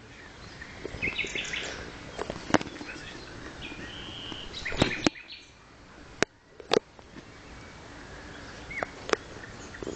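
Birds chirping and singing in short calls, with several sharp clicks and knocks, the loudest two near the middle.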